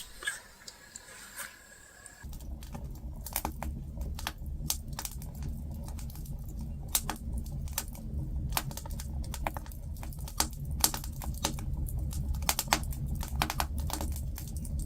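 Wood campfire crackling, with sharp irregular pops and snaps over a low steady rumble, coming in suddenly about two seconds in.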